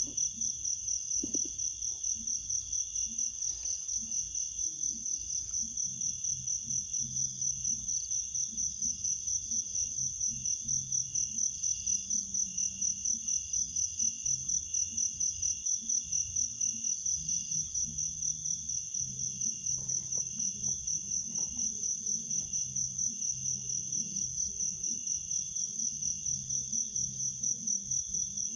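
Chorus of crickets chirping, a loud high-pitched trill pulsing evenly about three times a second without a break, with a faint low rumble underneath.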